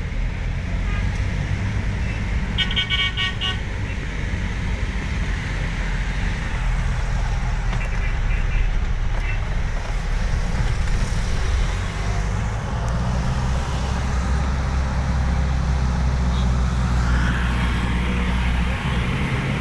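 Road traffic noise, a steady low rumble of a moving vehicle. A car horn honks about two and a half seconds in, with fainter honks around eight seconds.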